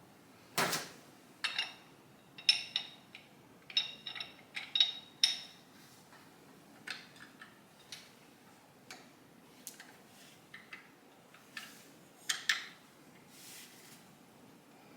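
Irregular metallic clicks and clinks of hand tools and small metal parts being handled during motorcycle assembly, some with a short ring, the loudest about half a second in.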